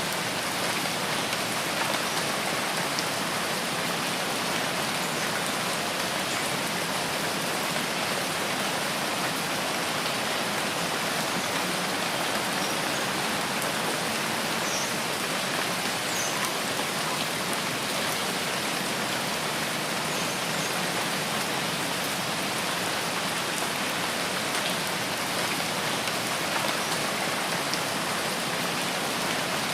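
Steady rain falling: an even hiss of many drops that holds without let-up.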